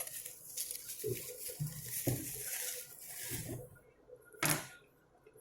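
Plastic packaging rustling and crinkling as a tightly wrapped item is unwrapped by hand, followed by one sharp click about four and a half seconds in.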